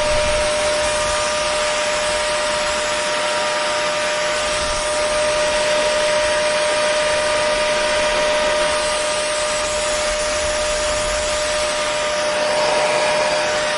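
Hair dryer running steadily: a constant rush of blown air with an unchanging whine from its motor.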